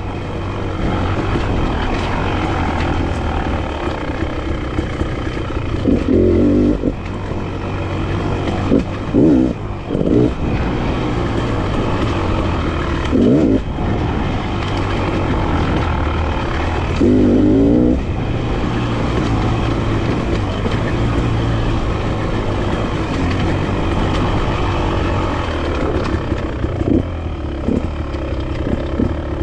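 Enduro dirt bike engine running as it is ridden along a single-track trail, rising and falling with the throttle, with several brief louder bursts through the ride.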